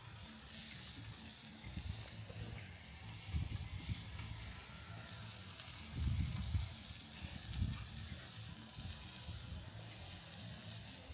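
Sausages and steak sizzling on the grill over a campfire, a steady hiss, with a few low thumps around the middle.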